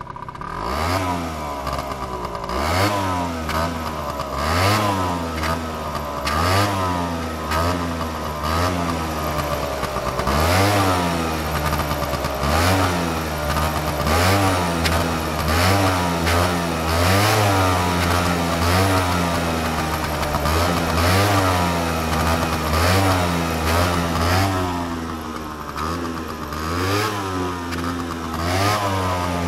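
Piaggio Zip 50 scooter's 50 cc two-stroke engine and exhaust being revved over and over. The throttle is blipped about every two seconds, and the engine rises in pitch each time and falls back toward idle.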